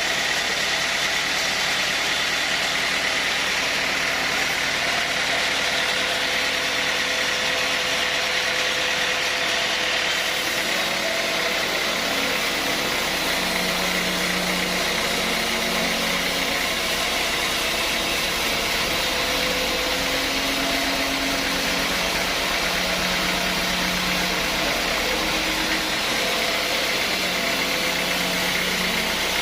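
Sawmill machinery running steadily: a constant loud mechanical noise whose tones shift slightly about a third of the way through.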